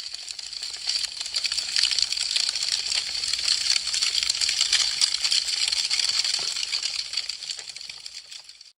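Wood fire crackling: a dense stream of small pops and snaps over a soft hiss, swelling up over the first couple of seconds and fading away near the end.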